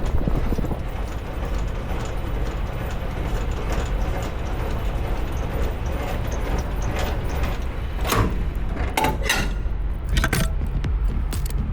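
Peterbilt semi truck's diesel engine running steadily with a low rumble, with a few short clicks and rattles between about eight and ten seconds in.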